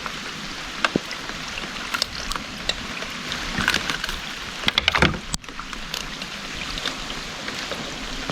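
Steady rain hissing on the water and the kayak, with scattered knocks and clicks against the kayak hull and a louder cluster of knocks about five seconds in.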